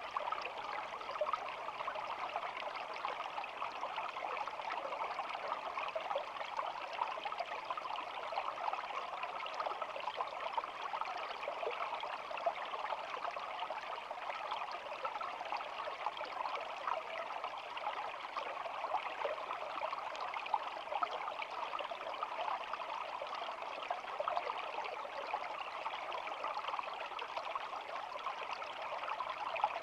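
Small shallow stream babbling steadily, an even, continuous trickle and splash of running water.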